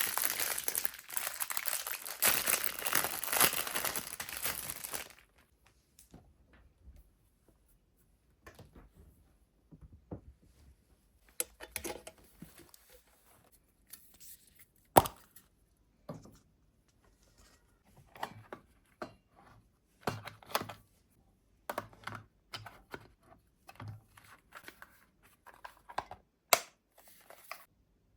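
Crinkly material torn and rustled for about five seconds, then scattered light knocks and clicks of kitchen handling, with one sharper knock about halfway through.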